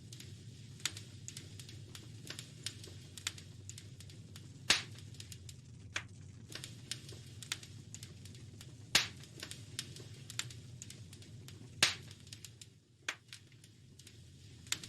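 Wood fire crackling: a steady scatter of small clicks with a few loud sharp pops, three of them standing out, over a low steady rumble.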